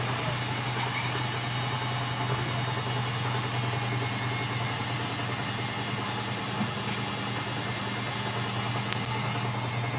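LG washing machine running with a steady low hum and even hiss, in a Normal cycle held in suds lock.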